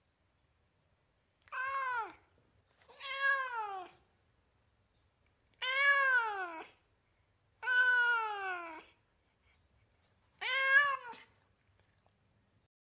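Domestic cat meowing five times, a second or two apart, each meow rising and then falling in pitch.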